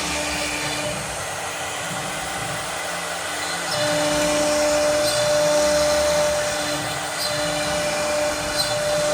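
CNC machine running a cut: a steady motor whine over a rushing cutting noise, getting somewhat louder about four seconds in.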